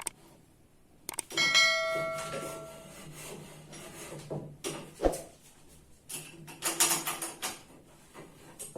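A metal part clanks and rings out with a bell-like tone that dies away over about a second and a half. A sharp knock and a short spell of scraping and rattling follow as the metal pieces are handled.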